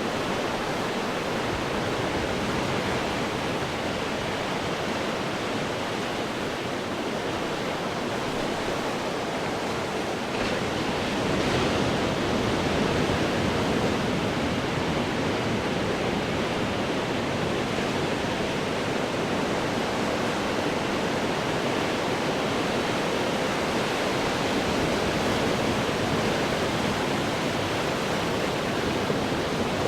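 Ocean waves breaking on rocks: a continuous rushing wash of surf, swelling a little louder about a third of the way in as a bigger wave breaks.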